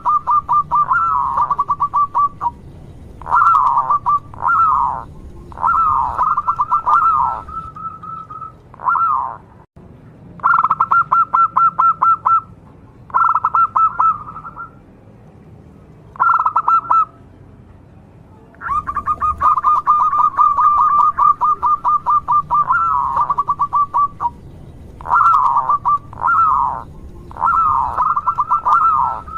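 Zebra dove (perkutut) singing: about eight phrases of rapid, stuttering coo notes, each phrase one to five seconds long, with short pauses between.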